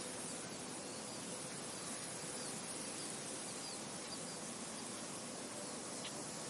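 Steady wind blowing across an open field, with faint, short bird chirps high above it now and then.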